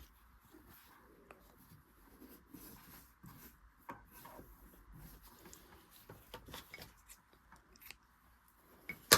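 Faint rustling and small clicks of hands rethreading a Singer Genie sewing machine and handling its thread, with one sharper click near the end.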